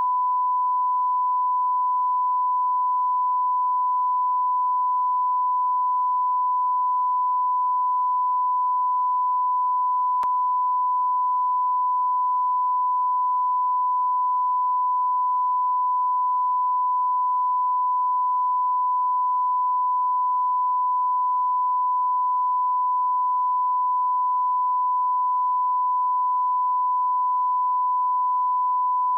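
Continuous electronic sine tone near 1 kHz, like a test tone. It holds one steady pitch and level without a break.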